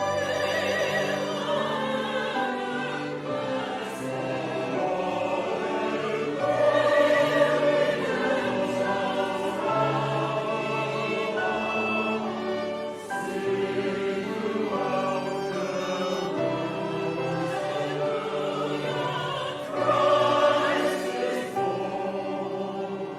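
Church chancel choir singing a Christmas choral piece in sustained, overlapping vocal lines. It swells louder about seven seconds in and again near twenty seconds.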